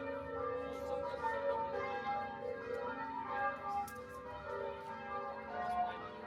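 Church bells ringing in sequence, with each new stroke overlapping the ring of the ones before, as in change ringing.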